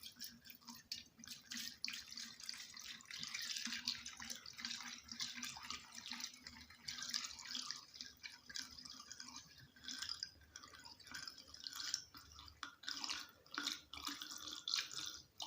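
Gasoline being poured into a Fieldmann FZP chainsaw's fuel tank, with a faint, irregular trickling and splashing as the tank fills.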